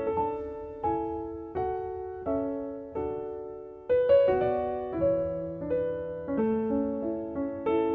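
Slow, gentle piano music: soft notes and chords struck every second or so and left to ring out and fade.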